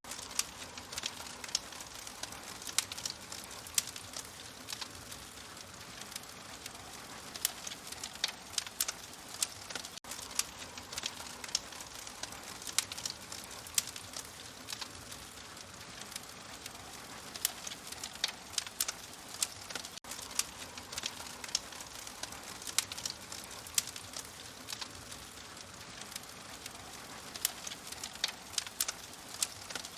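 Wood fire crackling: irregular sharp pops and crackles over a steady soft hiss.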